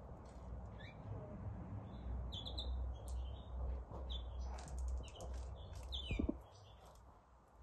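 A small bird chirping, a series of short, quick chirps, over a steady low hum. A low thump about six seconds in, after which the hum stops.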